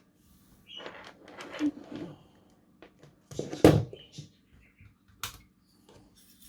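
Scattered small clicks and clatter of hands handling equipment on a workbench, with one louder knock about three and a half seconds in, as a bench power supply is set up.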